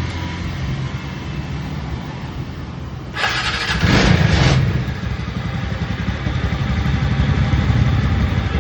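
TVS NTorq 125 scooter's single-cylinder engine running after repair work to clear an engine noise. It is revved briefly about three seconds in, then keeps running slightly louder.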